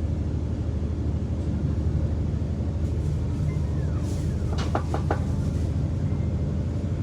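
Steady low mechanical hum of a train heard from inside a carriage, with a few light clicks about four and a half to five seconds in.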